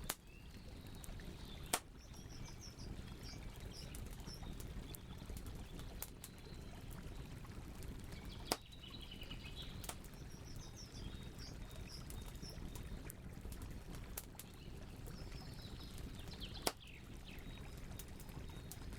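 Campfire burning with small crackles over a low steady rumble, and three sharp, loud pops spread through the stretch. Birds chirp high in the background in short recurring phrases.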